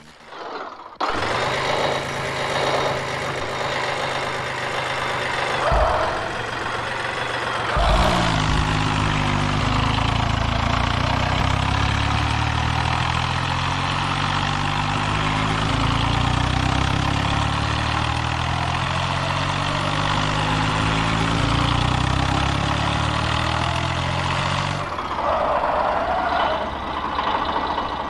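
Tractor diesel engine running loudly, starting abruptly about a second in. About eight seconds in it takes on a heavier, deeper note that holds until a few seconds before the end, then drops back.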